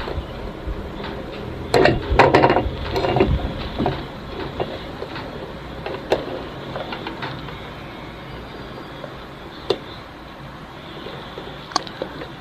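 Handling noises from tools and a circuit board on a workbench: a short cluster of clattering and rustling about two seconds in, then a few isolated sharp clicks.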